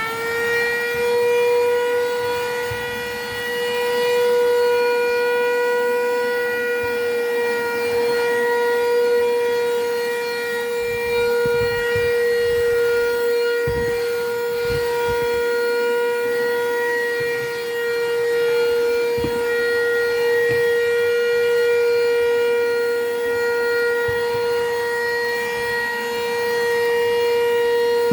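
Handheld car vacuum cleaner's electric motor running with a steady high whine, settling at full speed in the first second after switching on. A few faint knocks from handling can be heard.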